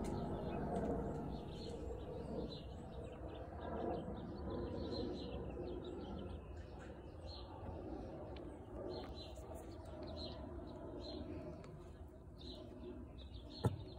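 Small birds chirping repeatedly over a low, steady outdoor hum, with a single sharp click near the end.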